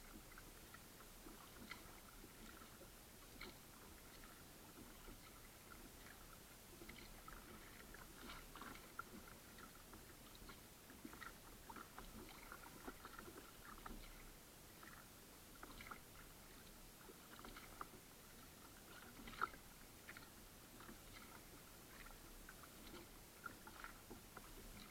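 Faint water sounds from a kayak under paddle: small irregular splashes, drips and clicks of water against the paddle and hull over a low hiss.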